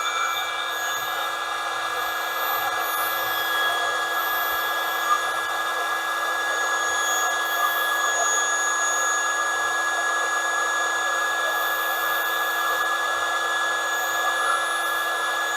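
Small electric air pump running steadily as it inflates an inflatable air mattress, a continuous even whine.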